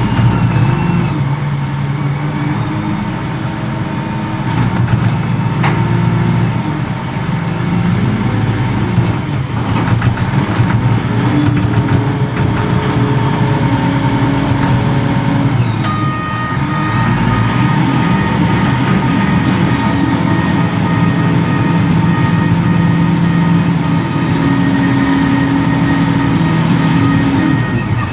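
Reach stacker's diesel engine running under load, its pitch shifting up and down as the machine works. A steady high whine joins it about halfway through.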